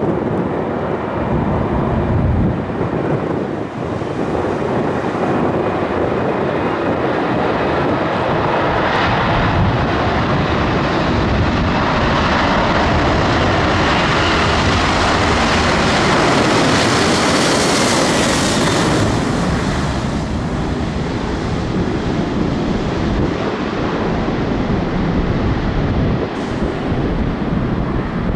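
An aircraft passing close by, its engine noise building to a peak a little past the middle and then fading away.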